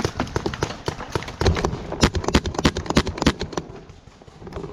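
Quick, irregular footfalls of a person running, thickest and loudest from about a second and a half to three and a half seconds in, then dying away near the end.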